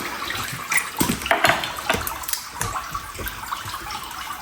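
Liquid splashing and running with a scatter of small clicks and knocks, as a dirty fuel filter is cleaned out over a pan. About a second and a half in there is a brief louder hiss.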